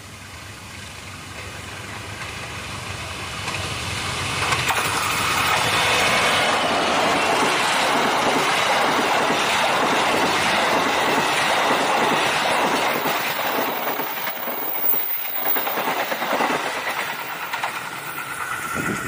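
Diesel-hauled passenger train approaching and passing close by: the rumble grows over the first five seconds, then the coach wheels clatter rhythmically over the rail joints as the train goes past, easing off near the end.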